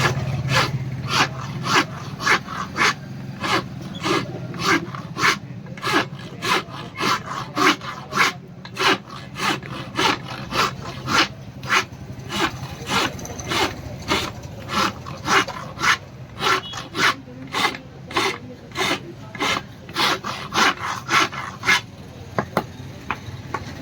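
Hand file being stroked back and forth over the steel of a spear blade forged from a truck leaf spring, a rasping stroke about twice a second. The strokes stop near the end.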